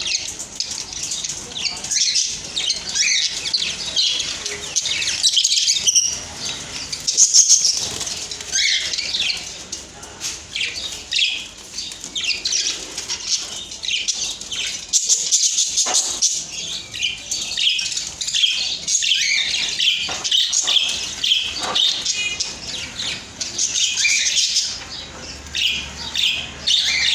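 A flock of budgerigars chirping and chattering together: a dense, continuous warble of short, high chirps with no pauses.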